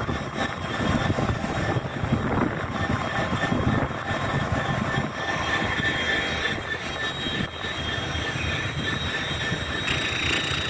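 GBRf Class 66 diesel locomotive, an EMD two-stroke V12, running past with a train of empty container flat wagons. The diesel engine and the rumble of the wagon wheels on the rails are overlaid by a thin, steady wheel squeal.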